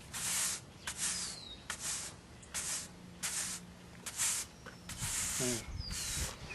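A brush scrubbing back and forth over asphalt, spreading and smoothing crack-filler paste: a steady series of short scratchy strokes, roughly one and a half a second.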